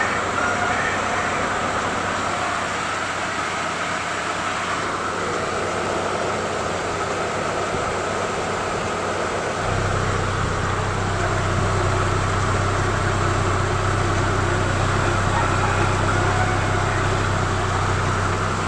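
Honda Accord's F23 four-cylinder engine idling after a full overhaul. About ten seconds in, a deep steady hum sets in and holds.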